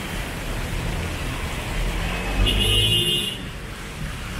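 Steady rain on a street with passing traffic, and a short vehicle horn toot lasting about a second, a little over two seconds in.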